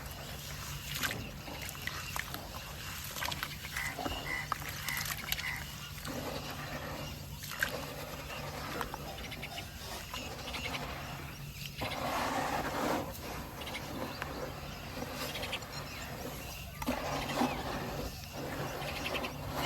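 White cement shapes crumbling in water: continuous crunching and crackling with small clicks, swelling into louder gritty rushes about twelve seconds in and again near the end.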